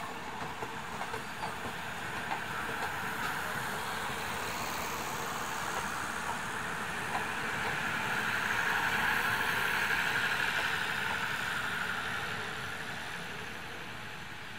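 Passenger train coaches rolling past on the track: a steady running noise of wheels on rails that grows to its loudest about two-thirds of the way through, then fades as the train moves away.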